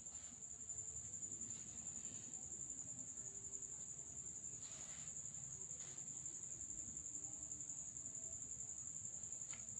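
A steady high-pitched tone, faintly wavering, runs on throughout over low room noise, with a few soft taps.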